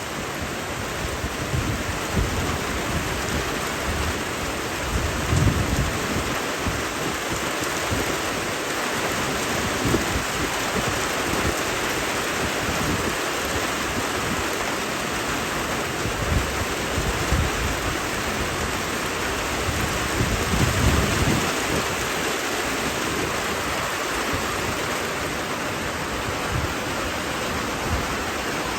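Heavy rain falling steadily as an even hiss, with occasional deeper low rumbles coming and going.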